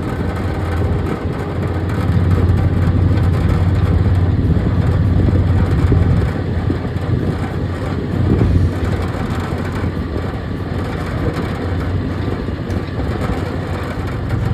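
Heavy pulling vehicle's engine running loud and hard under load, a deep steady drone that builds over the first couple of seconds, eases slightly, then surges briefly about eight seconds in.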